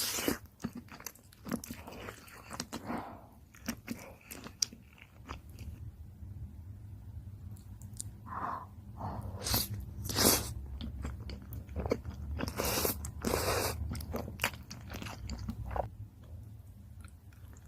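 Close-miked eating sounds: biting and chewing shrimp cream pasta, with irregular wet mouth clicks and two louder bursts in the second half.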